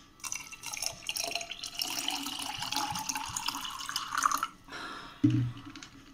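Chilled water poured into a glass jar of curd for lassi, a steady splashing stream whose pitch rises as the jar fills, stopping after about four and a half seconds. A short low thump follows about a second later.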